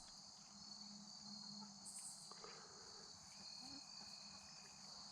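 Faint chorus of crickets: a steady, high-pitched trilling.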